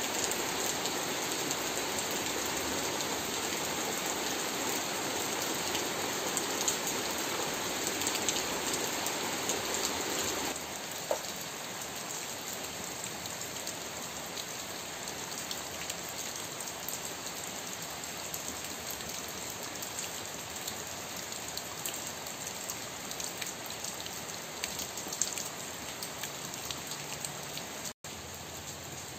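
Steady heavy rain falling on leaves and wet ground. About ten seconds in, the sound shifts a little quieter, to rain pattering on standing water with a drainpipe spilling a stream of runoff into the puddle. It cuts out for an instant near the end.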